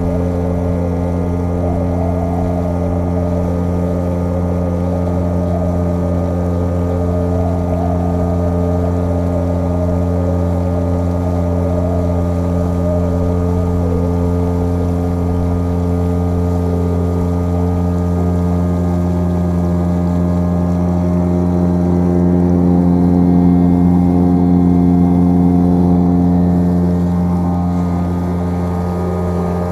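Speeda 6 outboard motor running steadily, pushing an inflatable PVC boat along, with water rushing past the hull. It grows a little louder for a few seconds near the end.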